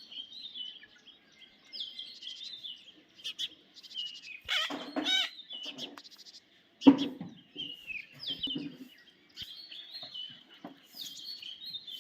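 Pet parrots chirping and twittering in rapid short notes, with harsher screeching calls around the middle and a sudden loud sound about seven seconds in.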